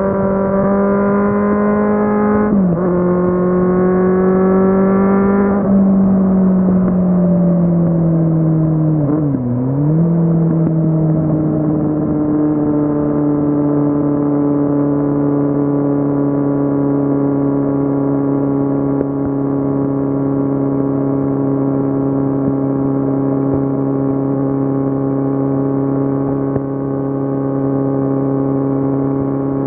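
Kawasaki Z750 inline-four engine running under way on a ride. Its pitch climbs and then drops sharply twice in the first few seconds, dips and recovers near ten seconds in, and then holds a steady, lower drone.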